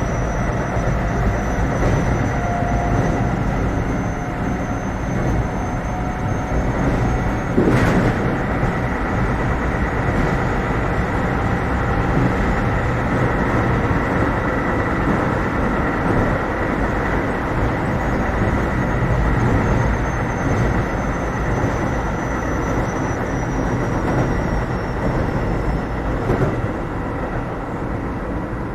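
Keio 7000 series electric train running, heard from inside the passenger car: a steady rumble of wheels on rail under a thin high whine, which falls in pitch in the last third. A single brief thump comes about eight seconds in.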